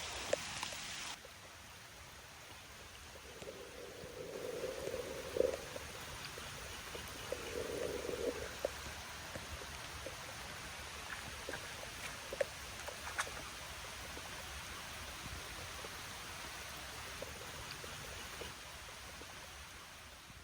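Steady rain with scattered drips and a few sharper taps. About a second in it drops to a quieter rain, and it fades out near the end.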